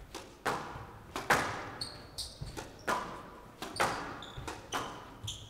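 Squash rally: the ball struck by rackets and smacking off the court walls about once a second, each hit echoing in the hall, with short squeaks of players' shoes on the court floor.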